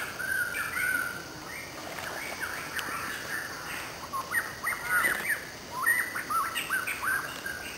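Birds chirping in a quick run of short, sliding calls, busiest in the second half.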